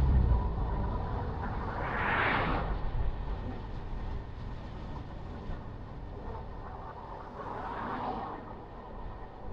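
Road traffic heard during a drive: a low rumble dies away in the first second. A vehicle passes with a hissing swell about two seconds in, and a weaker one passes near eight seconds.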